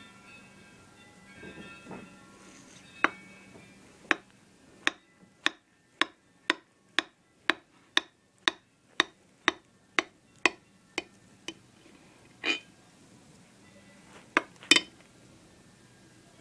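A run of sharp clicks or taps, about two a second, starting about three seconds in and stopping near eleven and a half seconds, followed by a few scattered, louder ones near the end.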